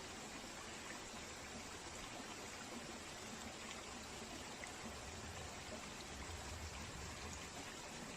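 A river flowing steadily, an even rushing of water with a few faint ticks.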